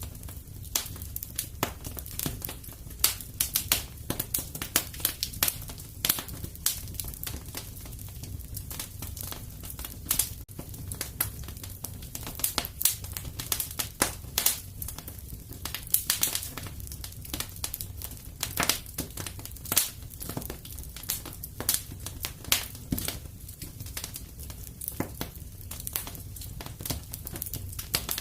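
Wood fire crackling in a fireplace: a constant scatter of irregular sharp snaps over a low steady rumble.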